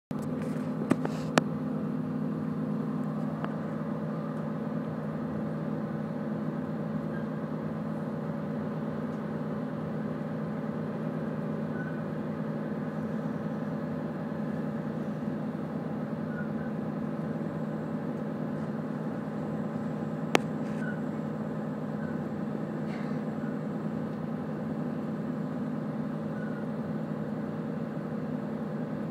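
Steady running noise of a moving passenger train heard from inside the carriage, a low even rumble. A few sharp clicks stand out, two about a second in and one about two-thirds of the way through.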